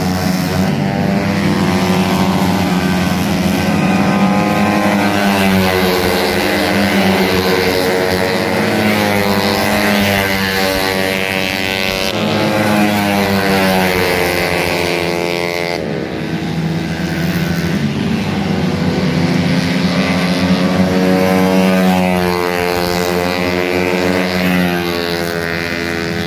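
Motorcycle engine being revved up and down, its pitch slowly rising and falling several times.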